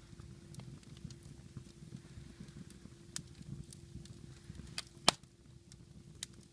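Wood fire in a fireplace crackling, with scattered small pops and one loud snap about five seconds in, over a low steady rumble of the flames.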